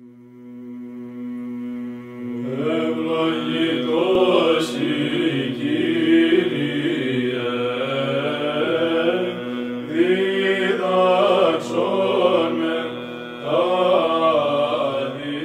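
Chanted vocal music: a sung melody over a steady held drone note, fading in over the first couple of seconds.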